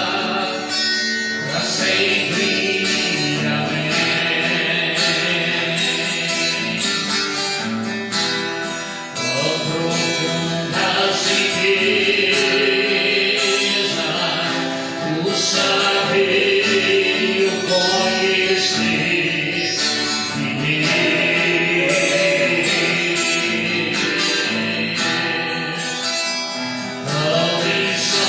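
Gospel worship song sung by voices over instrumental accompaniment with a steady beat.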